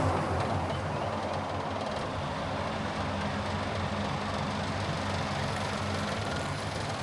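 Car driving: a steady low engine hum under road noise, with a louder rush of passing traffic fading out in the first second.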